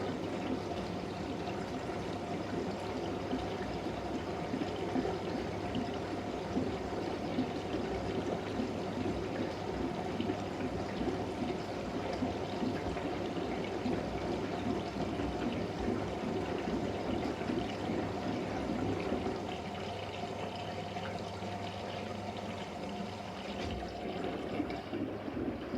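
Siemens Siwamat IQ 716 front-loading washing machine running in the early part of a wash, with water pouring and splashing steadily inside the drum over a low hum.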